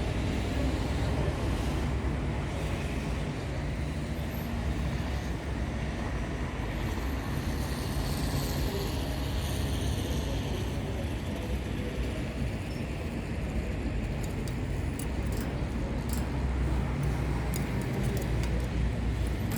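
Steady low rumble of background noise, with a few faint clicks about three-quarters of the way through.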